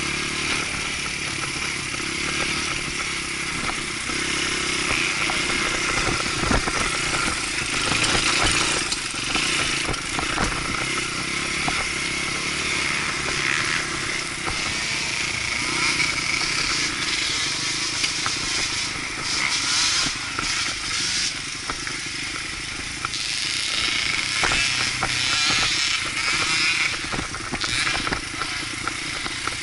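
Dirt bike engine running continuously while riding, its pitch shifting up and down with the throttle, with scattered clicks and rattles over it.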